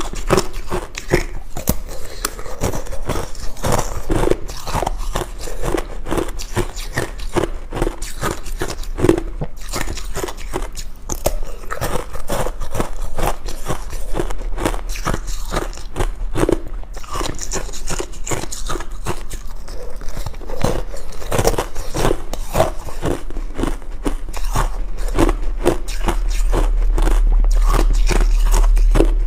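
Ice being bitten and chewed close to the microphone: dense, continuous crunching and cracking. A low steady hum underneath grows louder near the end.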